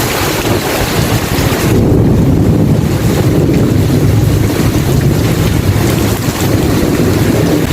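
Steady rain with a low rumble of thunder that swells about two seconds in and rolls on.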